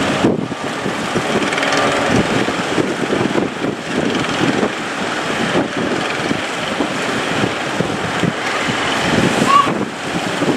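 Wind buffeting the microphone over the steady running of a boat engine and the wash of waves.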